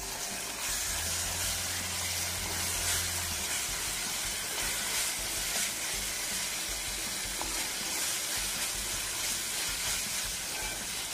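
Vindaloo masala paste and sliced onions sizzling as they fry in oil in a pan while being stirred with a spatula, a steady hiss with the spatula working through the mix. This is the stage of frying the masala until the oil separates.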